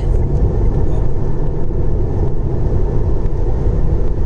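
Steady road and tyre rumble inside a moving car's cabin at motorway speed.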